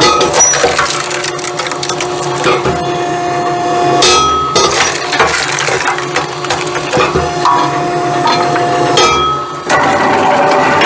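Firewood-processing machinery running, with split pieces of wood clattering and knocking against metal in quick irregular strikes over a steady machine hum.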